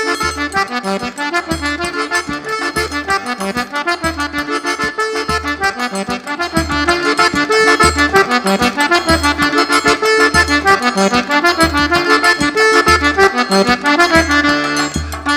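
Accordion (sanfona) playing a lively Northeastern tune over a steady zabumba bass-drum beat, the music getting louder about seven seconds in.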